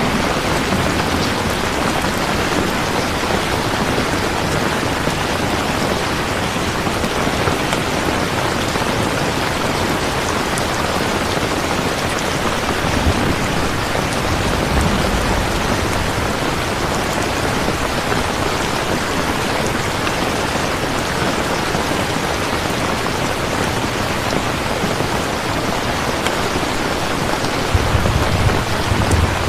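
Steady rain falling, a constant hiss, with low rumbles of thunder about halfway through and again near the end.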